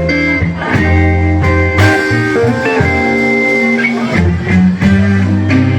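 Live blues band playing: electric guitar lead phrases with a bent note over bass and drums, with no vocals.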